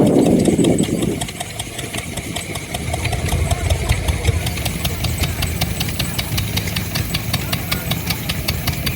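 A vintage engine running steadily at idle, with a quick, even ticking over a low hum; a louder burst of sound in the first second.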